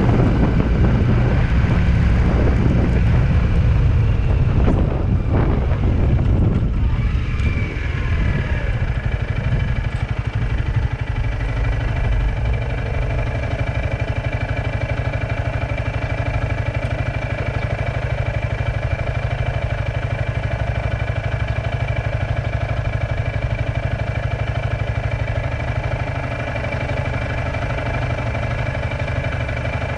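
Vehicle engine running, with wind noise at first. About seven seconds in, the engine pitch falls and the wind drops away, and the engine then runs at a steady hum.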